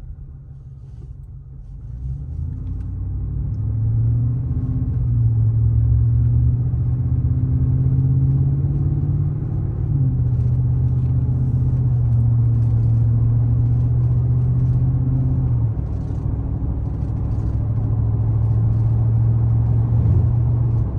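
Ford F-150's 5.0L Coyote V8 accelerating, heard from inside the cab with the windows up, through an aftermarket stainless cat-back exhaust with a straight-through muffler and the factory resonator kept. The low steady exhaust note builds over the first few seconds, then breaks briefly twice, about ten and sixteen seconds in, as the gears change.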